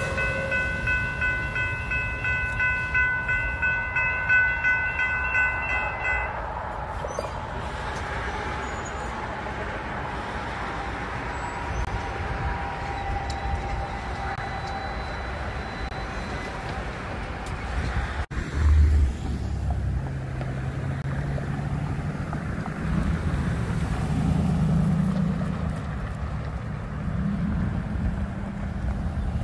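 TEXRail Stadler FLIRT diesel multiple-unit passenger train rolling through a grade crossing. For about the first six seconds a high, steady warning sound of several tones is heard, then running noise with a slowly falling whine as the train goes by. After an abrupt cut about two-thirds of the way through, wind rumble and passing road traffic are heard instead.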